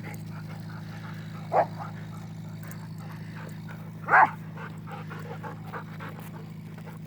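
A dog barks twice, a short single bark and then a louder one about two and a half seconds later, over a steady low hum.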